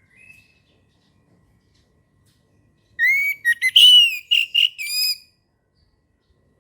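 Orange-headed thrush (anis merah) singing: a faint short note at the start, then, about three seconds in, a loud phrase of clear whistled notes that glide up and down for about two seconds.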